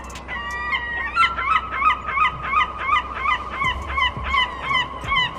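An animal calling: a drawn-out pitched call, then from about a second in a fast, even run of short calls, about three a second.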